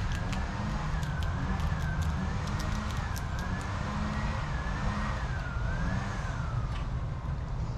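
Emergency-vehicle siren in the distance, wailing, its pitch rising and falling slowly about once every second or so, and dying away near the end, over a steady low rumble. Short, high ticks or chirps come in quick succession through the first half.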